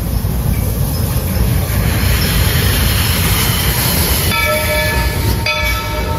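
Narrow-gauge steam train rolling with a steady rumble, heard from on board. About four seconds in, the locomotive's steam whistle sounds a chord of several tones, breaks off briefly and blows again.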